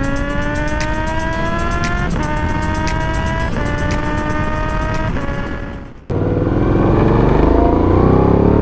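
Moto Guzzi V85 TT's transverse V-twin on a Mistral exhaust accelerating through the gears: the pitch climbs and drops at each upshift, about two seconds in, again at three and a half, and again at five. After an abrupt cut near six seconds, a louder stretch of the engine revving up.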